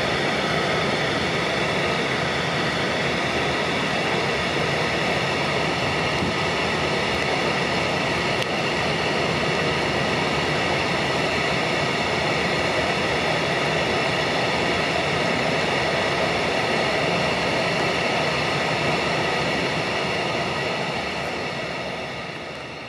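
Long train of covered freight wagons rolling past: a steady rumble of wheels on rail with a steady high-pitched ringing above it, fading out over the last few seconds.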